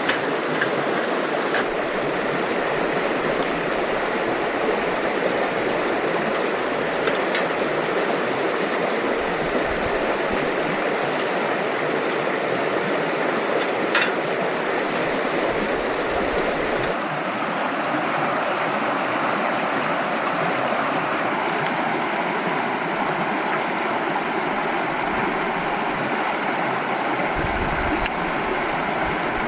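A stream rushing and burbling steadily, its sound changing character about halfway through, with a few faint clicks and a faint high steady tone for a while in the middle.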